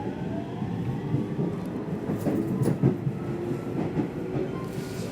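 Nishitetsu electric commuter train running, heard from inside the car: steady rumble with a motor whine rising in pitch as it gathers speed, and a few sharp wheel clacks over rail joints a little over two seconds in.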